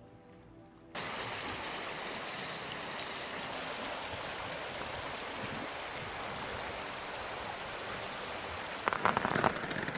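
Rushing river water: a steady, even hiss that starts abruptly about a second in, after a faint tail of music. A brief louder rustle comes near the end.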